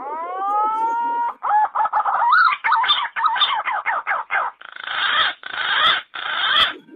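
Bird calls: a rising note with overtones, followed by a run of quick calls that change pitch and a few rougher calls near the end.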